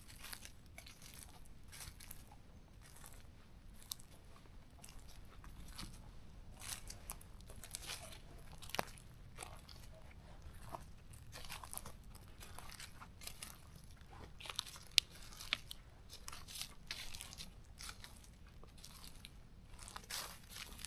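Footsteps crunching on a forest trail, a steady irregular walking pace with a few sharper snaps along the way.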